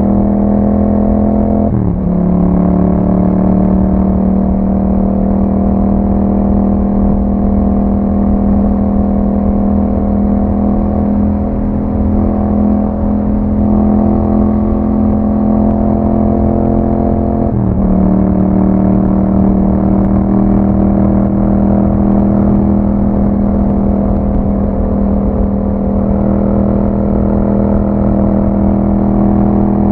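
2021 Yamaha MT-07's parallel-twin engine running through an Akrapovic exhaust while riding at steady revs. Twice, about two seconds in and again a little past halfway, the revs drop sharply for a moment and then settle back.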